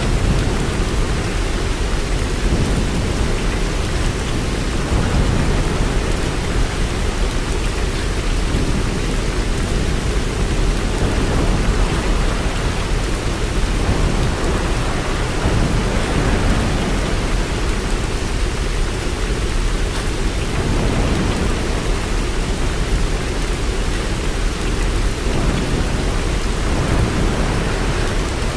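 Steady rain falling, with low thunder rumbling underneath that swells and fades every few seconds.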